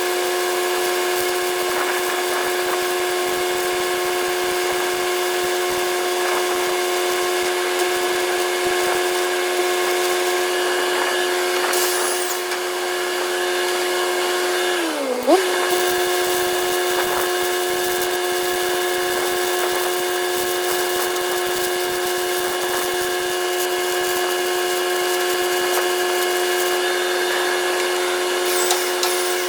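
Angle grinder running steadily at high speed with a constant whine. About halfway through, its pitch dips briefly and recovers as the disc is loaded against the work.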